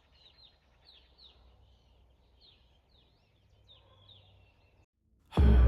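A bird chirping over and over in quick, faint chirps that fall in pitch. It stops just before music starts abruptly and loudly near the end.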